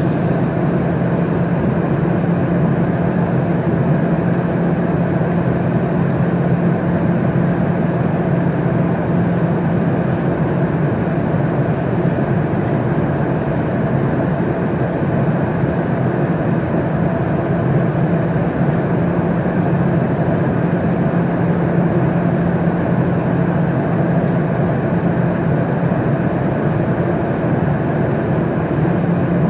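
Airliner cabin noise in flight: a steady, unchanging rushing hum, strongest in a low drone.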